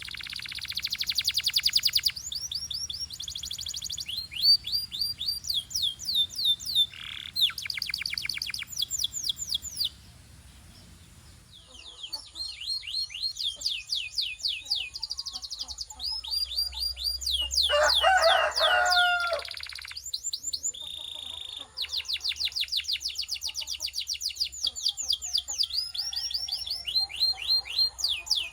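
Canary singing fast trills of repeated, downward-sweeping high notes, in phrases broken by a pause about a third of the way in. Lower, fuller bird calls cut in near the middle and again at the end.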